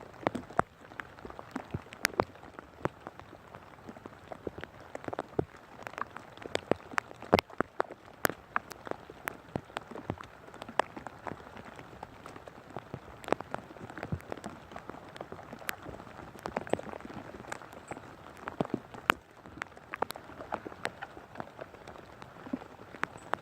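Rain falling steadily, with irregular sharp taps of heavy drops striking close by.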